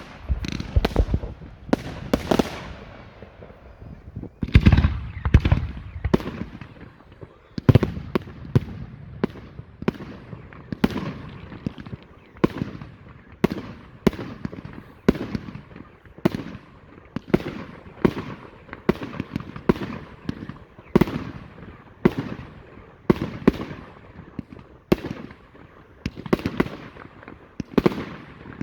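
Category 4 display fireworks going off in a continuous barrage of sharp bangs, one to two a second, each trailing off in an echo, with a heavier low rumble about five seconds in.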